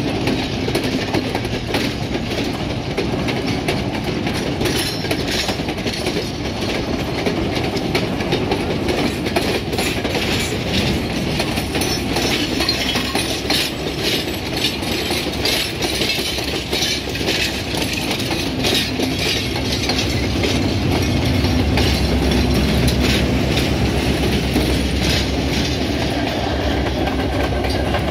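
Railway passenger coaches rolling past close by, their wheels clicking over the rail joints in a fast, continuous clatter. About two-thirds of the way in, a steady low drone joins as the Class M5 diesel-electric bank locomotive pushing the train comes past.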